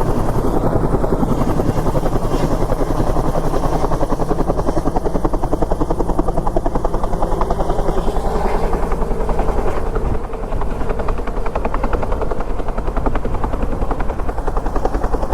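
Medical air-lift helicopter running close by: its rotor chops in a fast, steady beat.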